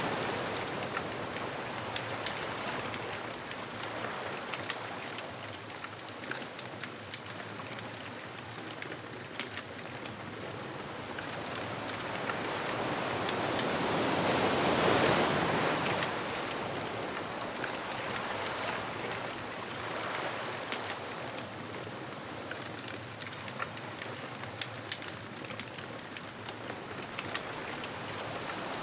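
Ocean waves washing onto a beach, one wave surging in loudly about halfway through, under a steady fine crackling.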